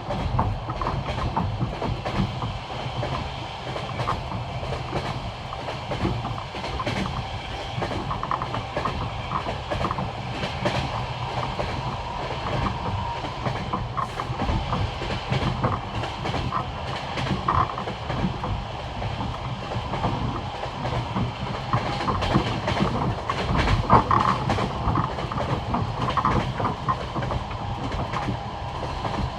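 Passenger train's wheels clicking over the rail joints of old jointed track: the classic clickety-clack in repeated groups of knocks over a continuous rolling rumble, heard from inside the carriage.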